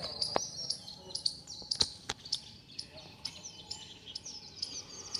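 Birds chirping in the background, with a few sharp clicks, the strongest about two seconds in.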